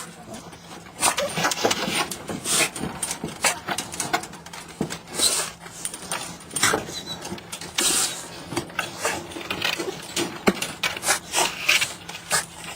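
Chihuahua sneezing over and over: a run of short, sharp noisy bursts, about one a second, coming irregularly.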